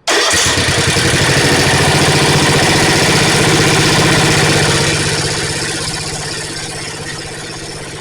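Snapper riding mower's engine starting at once and running fast with an even beat, then slowing to a lower, quieter speed about five seconds in.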